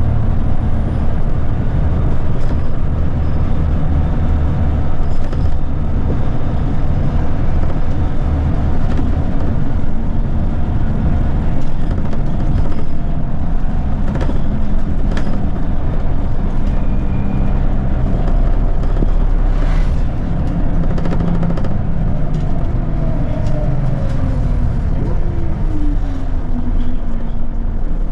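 Scania L94UB bus with a ZF automatic gearbox under way: steady engine and road noise with light rattles, and near the end a whine that falls steadily in pitch.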